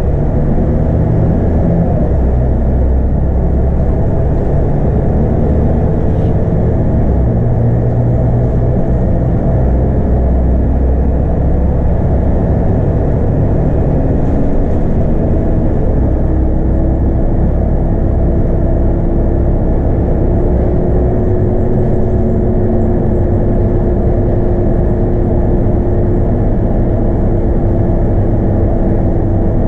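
A Scania K230UB bus's DC9 five-cylinder diesel and ZF Ecomat automatic gearbox under way, heard from inside: a steady engine drone with a whine that rises slowly in pitch about halfway through and then holds.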